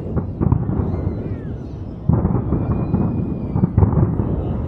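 Fireworks display: a rapid volley of aerial shell bursts booming and crackling, with a louder surge of bursts about two seconds in.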